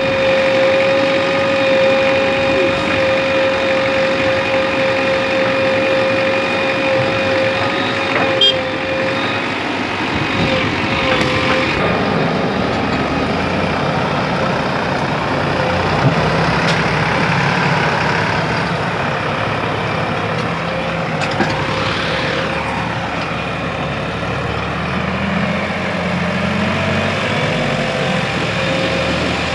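JCB 3DX backhoe loader's diesel engine running as the machine works, its note shifting with load. A steady high whine sits over it, strongest for the first ten seconds or so.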